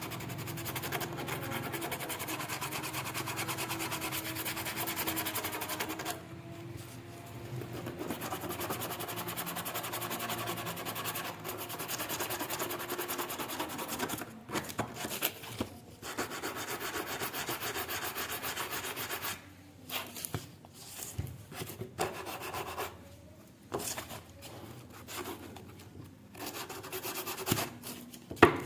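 Abrasive scrubbing on the rusted steel of cutting pliers: a steady, rapid scratchy rubbing in long runs with short pauses, and a sharp knock near the end.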